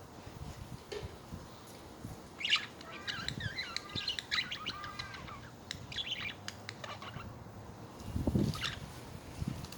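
Budgies chirping, with a chattering warble of quick wavering notes a few seconds in, and a low thump near the end.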